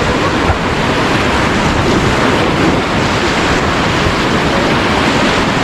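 Steady rushing of river water around a raft, with wind buffeting the microphone.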